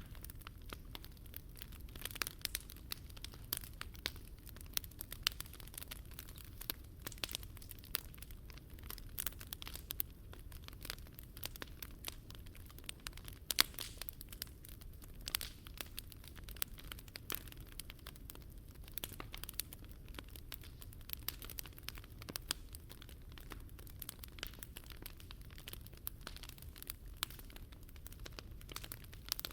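Wood fire crackling, with irregular sharp pops and snaps, one louder pop about halfway through, over a steady low rumble.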